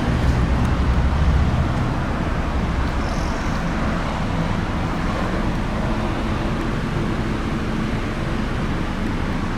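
Steady motor-vehicle noise, a low rumble like traffic or a running car, a little louder in the first second and a half.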